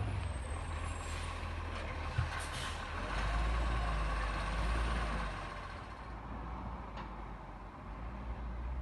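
Garbage truck's engine running, getting louder for a couple of seconds in the middle and then easing off, with a hiss of air and a single sharp knock about two seconds in.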